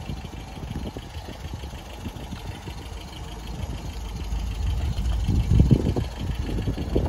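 MGB's 1.8-litre four-cylinder engine idling with a low, uneven rumble that grows louder about two-thirds of the way through, as the rear of the car with its exhaust comes nearer.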